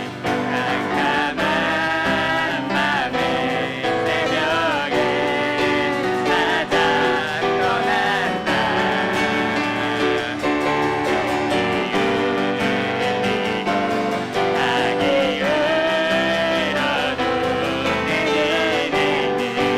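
Church praise team performing a worship song: a sung melody over piano and other band accompaniment, steady and continuous.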